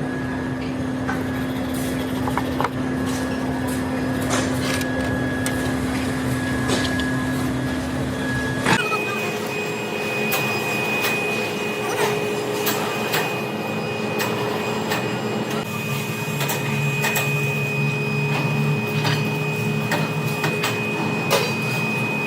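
Metalworking machine tool running, with a steady motor whine and scattered metallic clicks and taps. About nine seconds in, the whine switches abruptly to a different, higher pitch.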